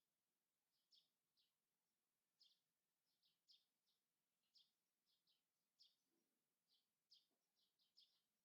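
Very faint, short, high-pitched bird chirps repeating irregularly, roughly two a second, over a quiet outdoor background.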